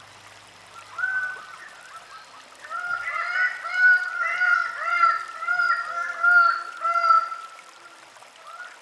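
Greater bird of paradise calling: one call about a second in, then a fast run of loud repeated notes, about three a second, lasting some four seconds.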